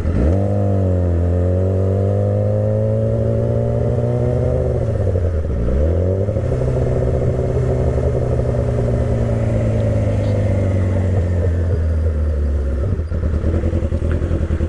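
2008 Yamaha YZF-R6's inline-four engine under way. The revs drop and climb again at a gear change right at the start and again about five or six seconds in, then hold fairly steady, easing slightly near the end.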